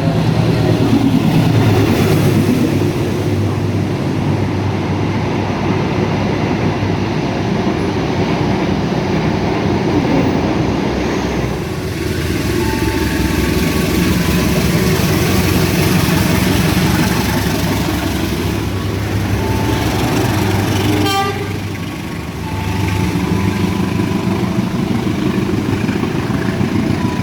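A train passing close by, its wheels rumbling and clattering steadily on the rails, with short horn toots sounding over it at times.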